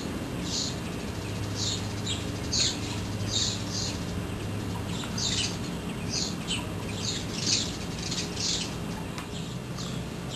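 A bird chirping: short high chirps repeated irregularly, about one or two a second, over a low steady hum.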